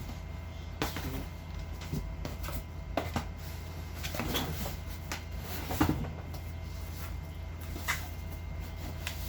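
Boxes and packaging being handled: scattered short knocks and rustling clatters, about half a dozen, over a steady low hum.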